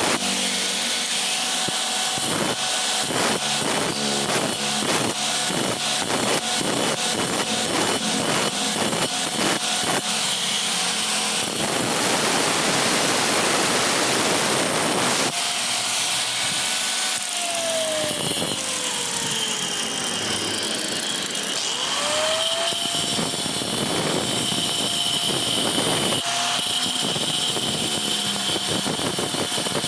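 Work on a stone flour mill: a fast run of sharp strikes for about the first ten seconds, then a stretch of steady grinding noise, then a tool's whine that falls and rises in pitch.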